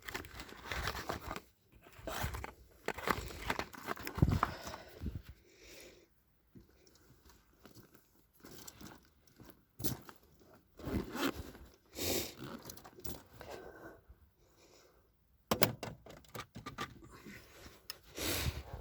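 Irregular rustling, crinkling and knocks, coming in clusters with quieter gaps between them, like handling noise from something being moved and rubbed close to the microphone.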